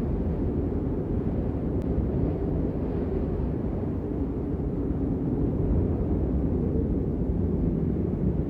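Steady rain, heard as an even, low, muffled rushing noise with little high hiss.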